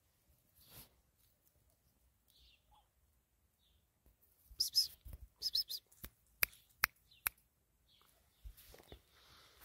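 Faint outdoor sound with birds chirping a few short times around the middle, followed by four sharp clicks in quick succession.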